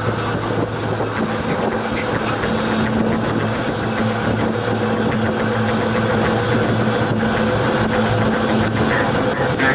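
Freight wagon rolling along the track, heard from on board: a steady rumble and rattle of steel wheels on the rails, with a low steady hum and occasional faint clicks.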